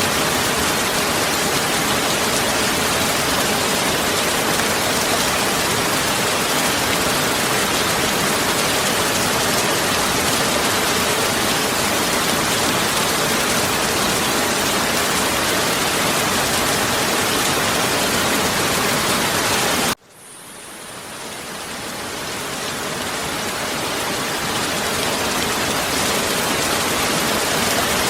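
Heavy rain falling as a dense, steady hiss. About twenty seconds in it cuts out suddenly, then fades back up to full strength over several seconds.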